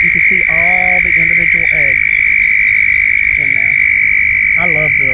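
A chorus of male toads trilling in their breeding pond: one steady, high-pitched trill that holds without a break. This is the mating call of the toad season.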